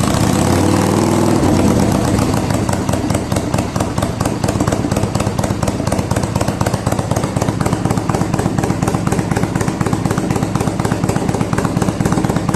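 Kawasaki Vulcan 400 V-twin running through an aftermarket 2-into-1 slash-cut muffler. The engine speed drops back over the first second or two, then it settles into a steady idle with an even exhaust beat.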